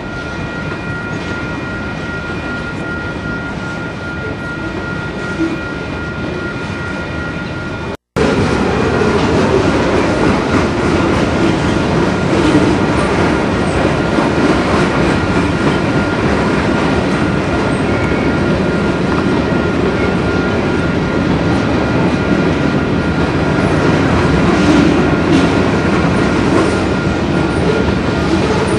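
A train rolling on the rails with a steady rumble and clatter of wheels, a thin steady whine over it at first. A sudden break about eight seconds in, after which the train noise is louder.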